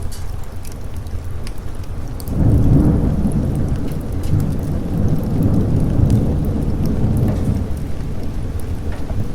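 Rolling thunder over steady rain: a loud low rumble swells up about two seconds in and rolls on, slowly fading near the end, with rain pattering and faint drop ticks throughout.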